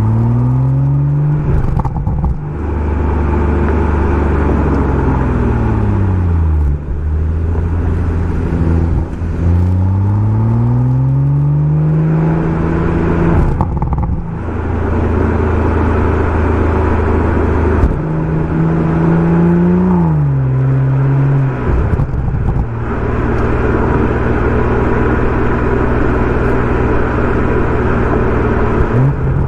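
BMW M140i's turbocharged 3.0-litre inline-six through a Remus aftermarket exhaust, pulling up through the revs and dropping back several times as the car accelerates and slows, with short breaks in the note at gear changes. It holds a steady note over the last several seconds, then rises sharply at the end.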